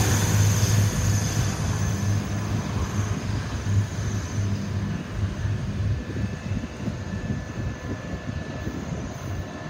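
Tze-Chiang Limited Express train running away down the track, its rumble fading steadily as it recedes.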